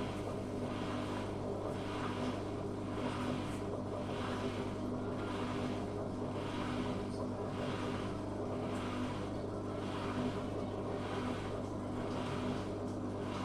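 Zanussi FA623 washing machine running, with a steady motor hum under a rhythmic swish that comes about twice a second.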